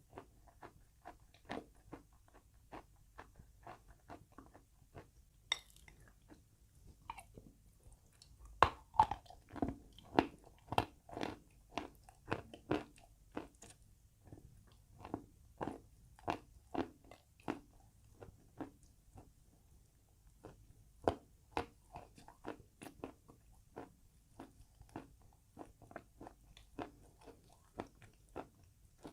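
Close-miked biting and chewing of chalk with paste: a steady run of short crunches, about two a second, louder and more crowded for a few seconds in the middle.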